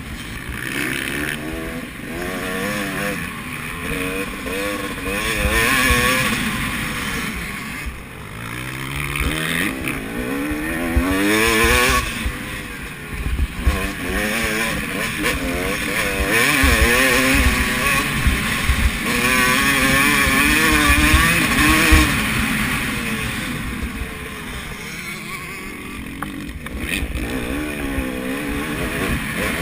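Motocross bikes racing on the track, several engines revving up and down as the riders work through the gears and corners.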